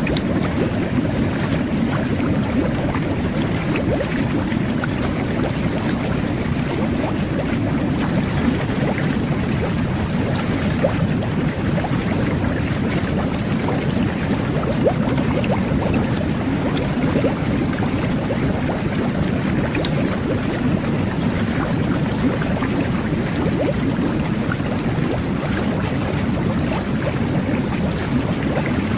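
Jet bath (whirlpool tub) running: a steady churning of water and air bubbles, with constant low rumbling and small bubbly pops.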